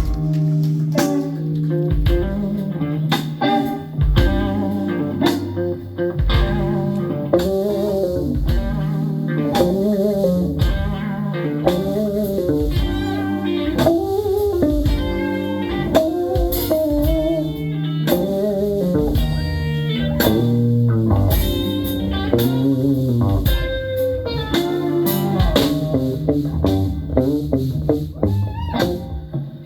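Live band playing an instrumental passage: a guitar solo of bent, wavering notes over bass guitar and drum kit.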